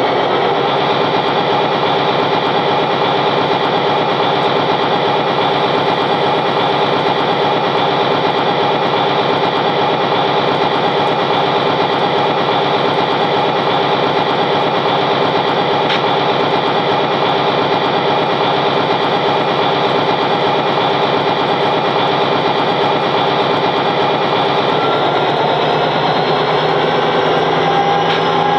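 A steady engine drone made of many held tones, unchanging in loudness, shifting slightly in pitch near the end.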